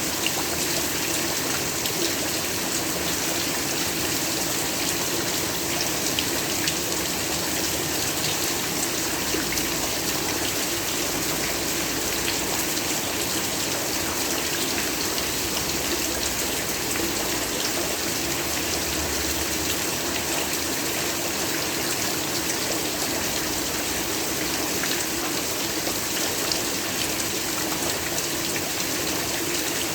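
Steady heavy rain, an even hiss of rainfall with many small drop patters.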